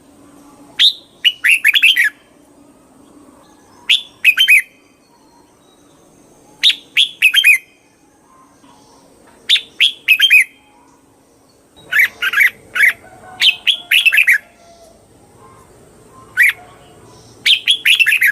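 Red-whiskered bulbul singing: short, loud, bubbly phrases of a few quick notes, repeated every couple of seconds, about nine phrases in all.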